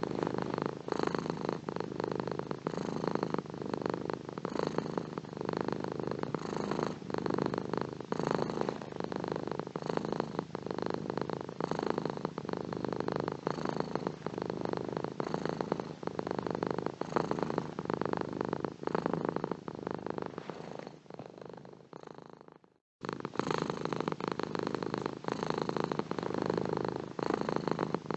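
Domestic cat purring steadily in an even, pulsing rhythm. About twenty seconds in the purr fades away to a moment of silence, then starts again abruptly at full level.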